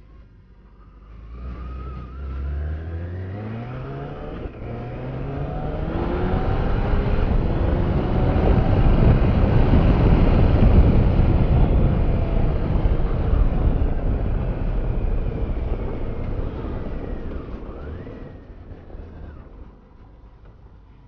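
Motorcycle engine accelerating, its pitch climbing twice in quick succession as it pulls through the gears, followed by a loud rushing noise that swells to a peak about halfway through and then fades away.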